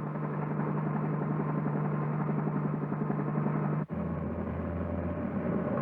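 Cartoon vehicle engine sound effect, a steady drone. About four seconds in it cuts off abruptly to a lower-pitched drone.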